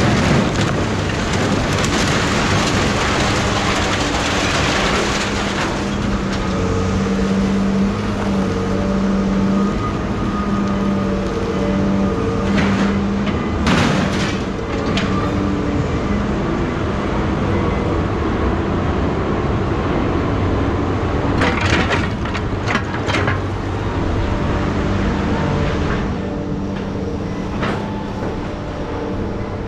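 An engine running steadily with a low hum that shifts in pitch now and then. There is a hiss of noise for the first few seconds, and a few sharp clicks or knocks come about halfway through and again about three-quarters in.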